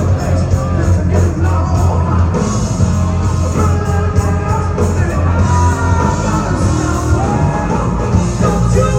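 A live rock band playing loud, with a singer's vocals and some shouts over the guitars and drums.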